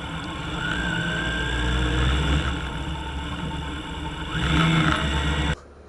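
Motorcycle engine running and revving as the bike pulls away, rising in level twice, then cutting off abruptly near the end.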